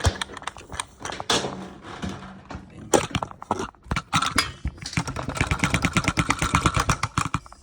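Plastic clicks and knocks from a Paladone mini Numatic Henry desk vacuum being opened and handled to empty out its dust, then a fast, even rattle of taps about five seconds in.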